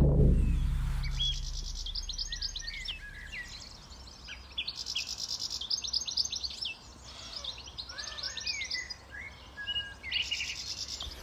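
Small songbirds singing and calling: bursts of rapid high trills and short chirps, repeated every second or two. At the start a low note dies away over the first couple of seconds.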